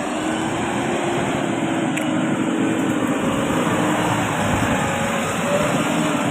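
JCB 3DX backhoe loader's diesel engine running steadily under work, with a faint wavering hum.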